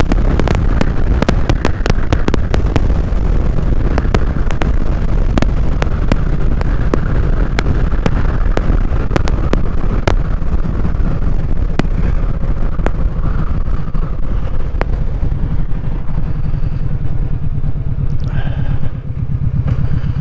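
Kawasaki Vulcan Vaquero's V-twin engine running while riding, exhaust loud and rough with the baffles taken out. Wind buffets the microphone and makes it crackle. Near the end the engine note becomes clearer and steadier after a brief dip in level.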